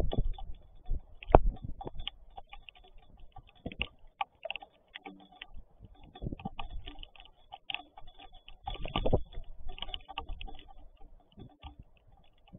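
Raindrops tapping irregularly on a hard surface close to the microphone, a scatter of small ticks with a few louder taps, including a cluster about three-quarters of the way through.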